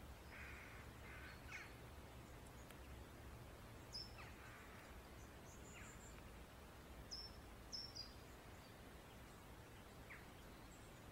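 Near silence with faint wild birdsong: short high chirps scattered through, and a few rougher, lower calls near the start and again about four seconds in.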